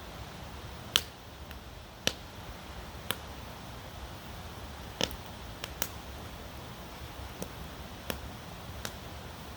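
Campfire crackling: wood popping in sharp, irregular snaps about once a second, over a steady background hiss.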